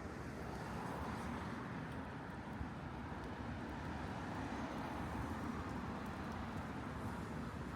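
Street ambience: a steady hum of road traffic with no distinct events.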